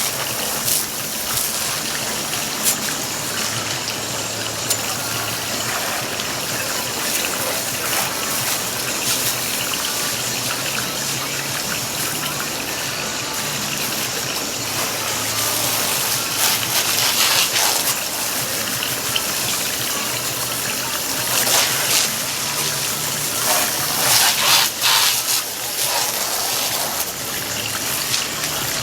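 Garden hose spraying water over a boat to rinse it, a steady rush of water that swells louder now and then as the spray moves.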